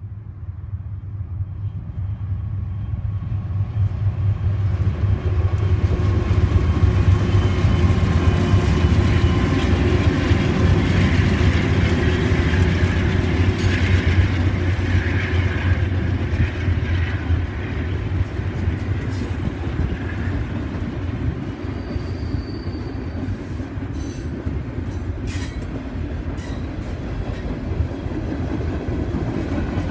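Freight train led by several diesel locomotives passing over a bridge. A heavy low engine rumble builds over the first several seconds and is loudest as the locomotives go by, then gives way to the steady rolling of the freight cars, with occasional sharp clicks of wheels over the rails.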